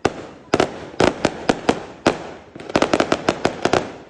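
Fireworks going off: a string of sharp bangs, at first irregular and about half a second apart, then a rapid volley of several bangs a second near the end.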